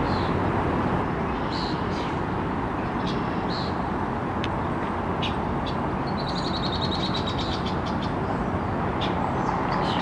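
Small birds chirping in short calls, with a rapid trill about six and a half seconds in, over a steady low background roar.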